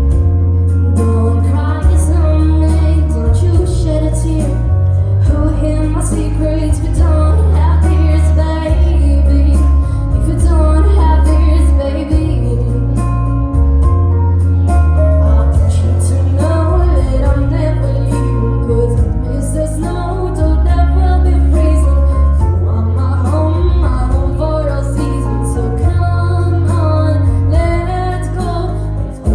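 A female voice singing over a backing track with a heavy bass line that steps from note to note.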